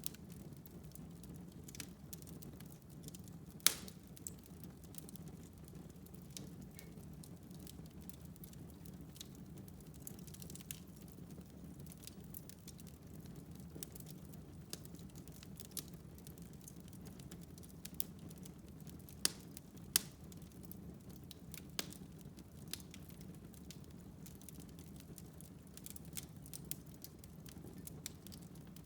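Wood fire burning in a fireplace with a low steady rush, crackling with scattered sharp pops; the loudest pop comes about four seconds in and two more close together a little past the middle.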